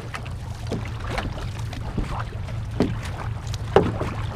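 Canoe paddling on water: paddle strokes splashing and knocking about once a second, over a steady low rumble.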